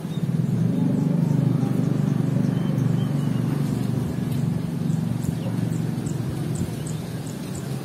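A steady low rumble, loudest in the first couple of seconds and easing off slowly. Faint short, high bird chirps come over it in the second half.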